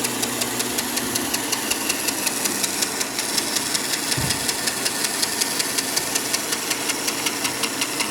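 A woodworking machine running steadily, with a rapid, even ticking of about five clicks a second over its noise.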